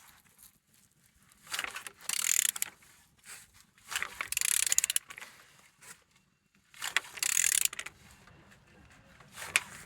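A Mercedes-Benz M111 four-cylinder engine's crankshaft being turned over by hand with a ratchet wrench, in three spells of ratcheting and mechanical clatter. It turns freely: the engine is not seized.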